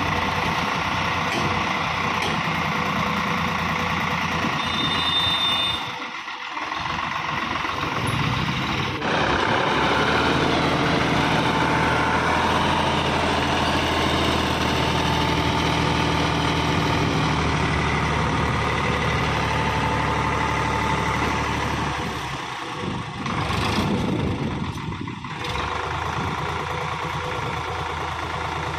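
Sonalika DI 750 tractor's diesel engine running steadily, a little louder from about nine seconds in, dipping briefly twice.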